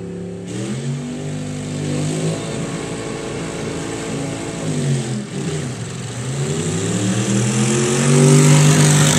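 Two drag-racing tractors at full throttle, a Volvo BM 400 with a Chevrolet V8 and a hard-tuned diesel, their engine note climbing in pitch. The pitch drops around five seconds in, then climbs again and grows louder near the end.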